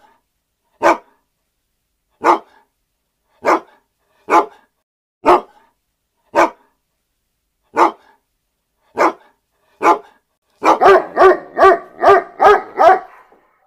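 A dog barking: single barks spaced about a second apart, then near the end a quick run of barks, three or four a second.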